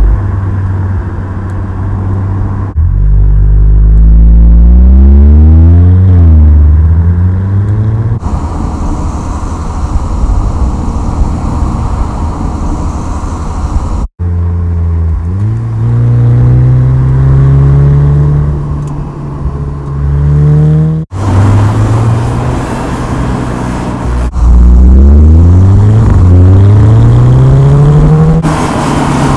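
Volkswagen Scirocco R's turbocharged 2.0-litre four-cylinder engine accelerating through the gears, its pitch climbing and then dropping at each shift. There are several abrupt cuts, and about a third of the way in there is a stretch of mostly road and wind noise.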